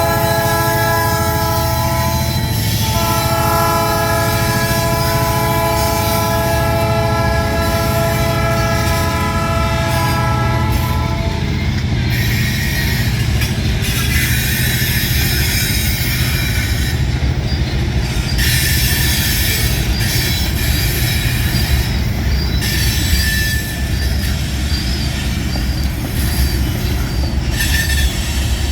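Diesel freight locomotive sounding its horn, a short blast and then a long one of about eight seconds, followed by the steady rumble of a long freight train rolling past.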